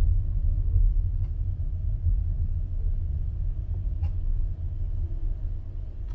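Low, steady rumble of street traffic, with a few faint ticks.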